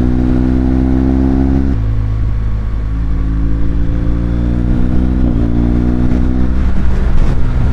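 Acura car's engine accelerating, its pitch climbing steadily and stepping at gear changes about two seconds in and again about five seconds in.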